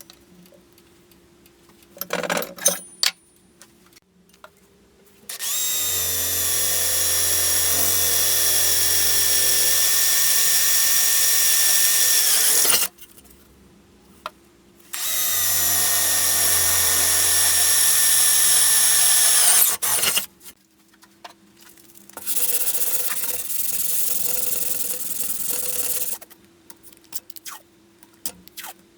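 Electric power tool motor run three times: each time it spins up quickly, runs steadily with a high whine and is switched off suddenly, the third run quieter and shorter. A few brief clatters of handling come before the first run.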